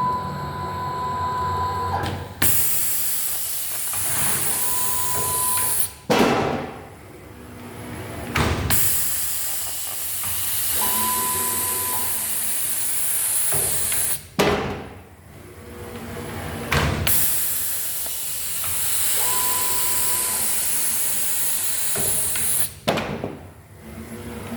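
Automated soap cutting and shrink-wrapping machinery running in repeated cycles. A steady air hiss is cut off by sharp clunks every few seconds, and a short high beep sounds four times.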